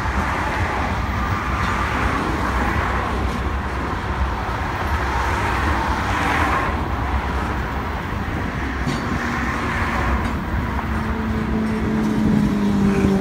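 Freight train's tank cars and covered hoppers rolling past close by: a steady rumble and rush of steel wheels on rail with a few faint clicks. Near the end a steady pitched tone fades in over it.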